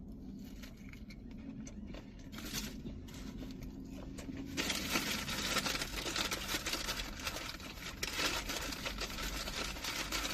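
Paper food wrapper rustling and crinkling while being handled, starting a few seconds in and going on in a dense crackle.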